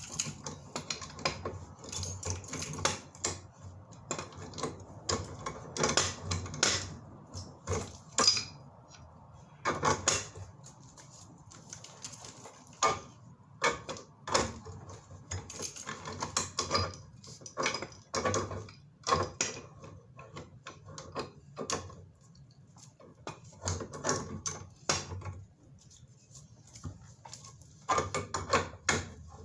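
Irregular metallic clinks, clanks and knocks of tools and pipe fittings being handled during gas-pipe work. There are dozens of sharp strikes at uneven intervals.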